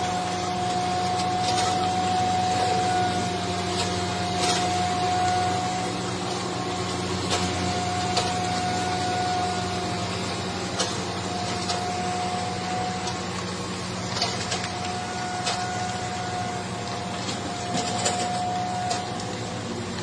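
A machine's engine running steadily with a low hum. A higher whine drops out and returns every few seconds, and scattered light clicks and knocks sound over it.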